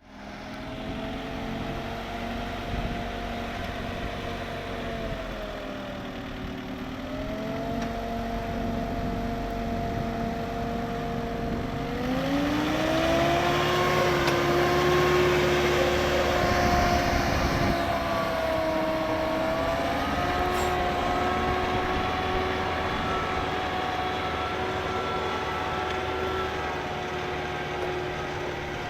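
Başak tractor engine converted to run on compressed natural gas, running steadily. Its speed dips slightly a few seconds in, then it revs up about twelve seconds in and holds at a higher speed.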